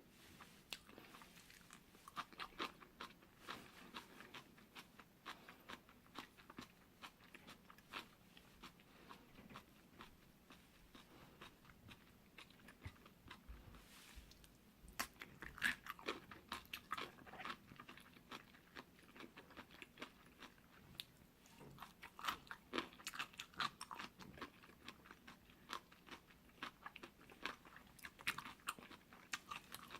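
Close-miked chewing of jjolmyeon, spicy chewy cold noodles: quiet wet crunching clicks that come in spurts of a few seconds with quieter gaps between.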